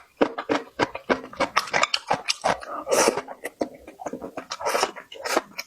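Loud, close-up chewing of crunchy pickled dried radish, with rapid, irregular crunches several times a second and a couple of longer wet bursts partway through.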